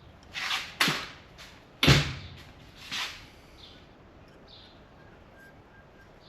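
A few short knocks and scrapes from small parts and tools being handled and set down on a workbench, over the first three seconds. The loudest is a knock about two seconds in.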